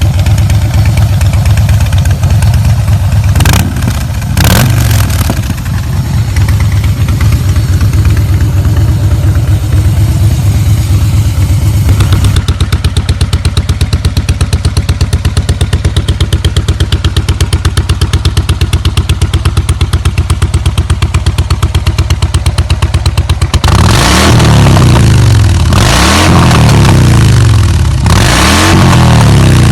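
Harley-Davidson Breakout's V-twin engine idling with two quick throttle blips a few seconds in, then settling into an even, pulsing idle. Near the end it is revved three times, each rev rising and falling.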